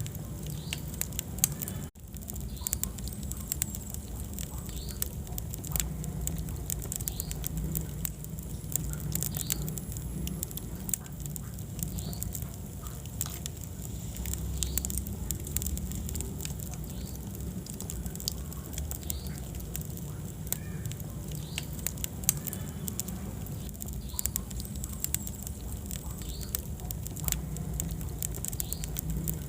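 Wood fire burning in a fireplace: a steady low rumble of flames with many small crackles and pops scattered throughout. There is a momentary break in the sound about two seconds in.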